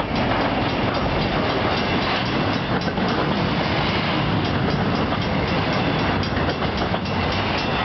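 Freight train cars rolling past close by: a steady rumble and rattle of wheels on rail, with a stream of clicks from the wheels passing over the track.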